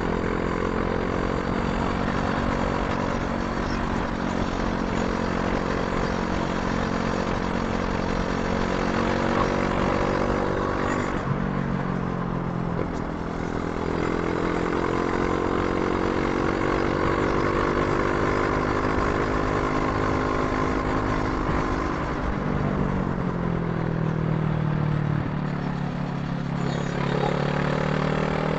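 Brixton Crossfire 500's parallel-twin engine running under way while being ridden. Its note holds steady, drops with a brief dip in loudness about eleven seconds in and again near the end, then climbs again as it pulls.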